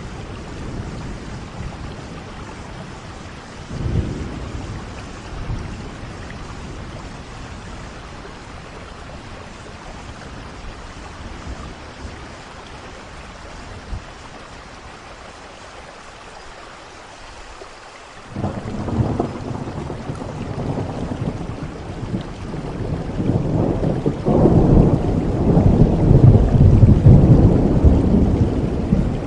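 Steady rain falling, with thunder: a brief rumble about four seconds in, then a long, heavy rolling rumble that starts suddenly about two-thirds of the way through and grows louder toward the end.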